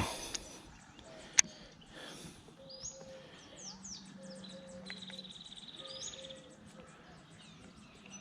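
Birds calling in the open: quick high falling chirps and a buzzy trill lasting about a second and a half midway, over repeated short lower notes. A single sharp click sounds about a second and a half in.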